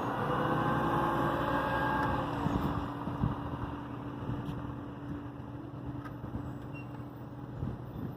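Motor vehicle running with a steady hum and whine, loudest for about the first two seconds and then fading into quieter traffic noise.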